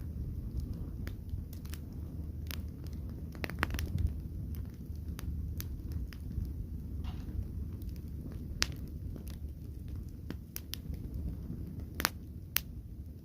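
Fire crackling, with irregular sharp pops and snaps over a steady low rumble of burning; a few louder pops stand out, one near the start and two close together near the end.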